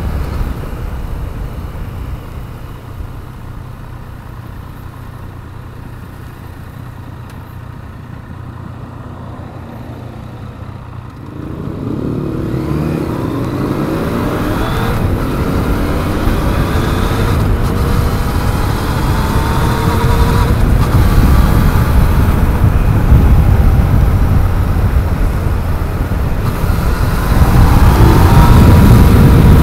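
Yamaha MT-09's three-cylinder engine heard from on board. It runs quietly off the throttle for about the first ten seconds. Then it accelerates, its pitch climbing in several rising sweeps that drop back at each gear change, and it pulls loudest near the end.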